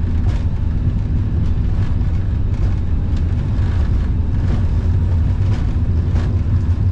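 Airbus A350-900 cockpit during the takeoff roll at takeoff thrust: a steady, loud low rumble from the Rolls-Royce Trent XWB engines and the wheels on the runway, with occasional faint knocks.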